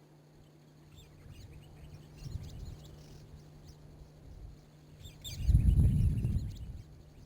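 Wild birds chirping with short, high calls. A loud, low rumble about five seconds in lasts over a second and briefly drowns the calls.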